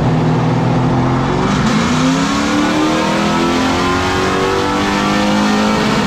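Carbureted GM 604 crate small-block V8 running on a chassis dyno: it holds a steady speed for about a second and a half, then climbs slowly in rpm.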